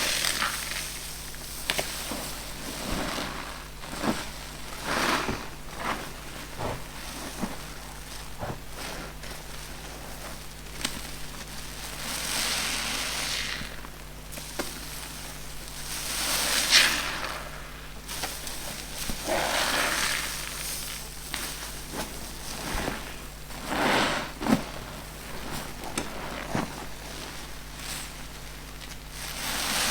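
New car-wash sponges squeezed by hand over and over, each squeeze a crackly hiss lasting a second or two, with small clicks and crackles between squeezes.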